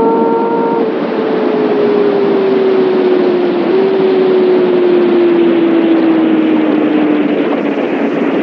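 Kawasaki ZX6R inline-four engine and exhaust running at high revs, with the engine note falling slowly and steadily as the revs come down and a brief hitch in pitch partway through, over steady wind rush.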